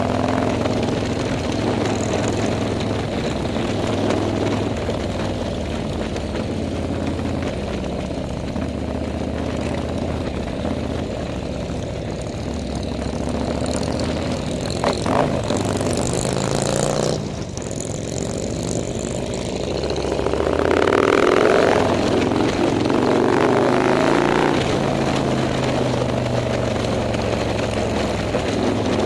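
Motorcycle engines running, their pitch stepping up and down as the throttle changes, getting louder about twenty seconds in.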